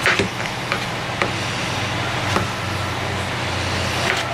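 A kitchen knife cutting potatoes on a cutting board: a handful of short, irregular knocks over a steady hiss and low hum.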